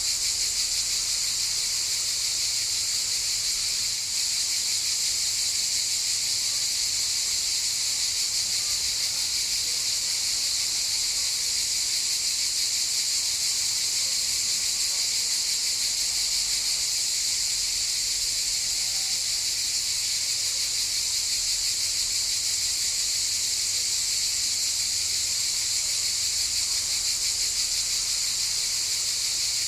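A chorus of cicadas buzzing steadily: a high, unbroken drone with a fine, rapid flutter.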